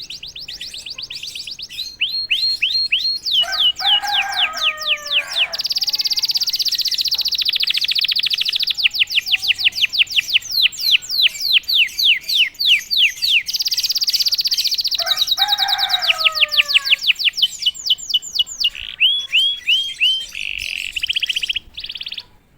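Domestic canary singing a long, loud song: fast trills of repeated high notes and sweeping chirps, with two lower warbled phrases in between. The song breaks off near the end.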